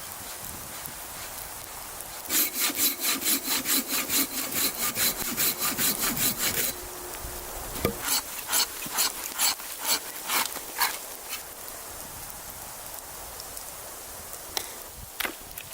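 Hand saw cutting through wood, with a quick run of back-and-forth strokes, then a knock and a slower set of strokes, and a few more near the end.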